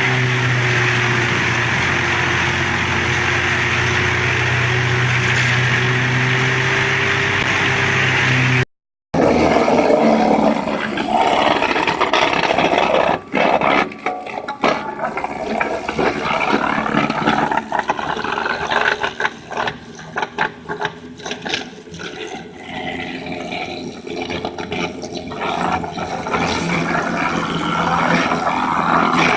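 Disc wood chipper running with a steady machine hum. About nine seconds in it cuts off sharply, and then comes an uneven crunching full of cracks and knocks as wood is chipped, its loudness rising and falling.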